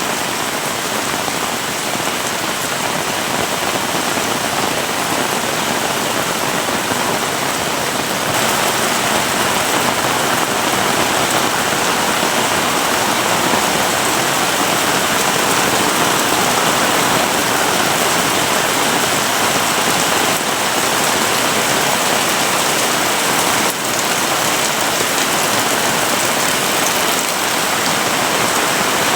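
Heavy rain pouring steadily, a dense even hiss of drops on surfaces, growing slightly louder about eight seconds in.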